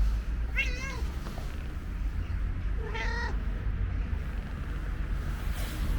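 Stray cat meowing twice, two short calls about two seconds apart, over a steady low rumble.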